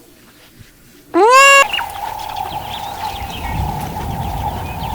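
A cat meows once, about a second in, the call rising in pitch. It is followed by the continuous busy calling and clucking of a flock of farm poultry.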